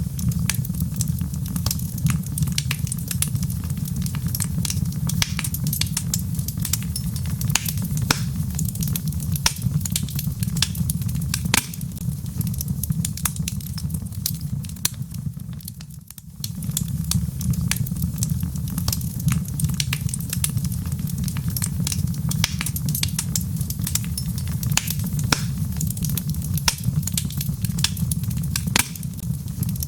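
Wood fire burning in a fireplace: logs crackling with frequent sharp pops over a steady low rumble of the flames. The sound drops away briefly about halfway through, then carries on.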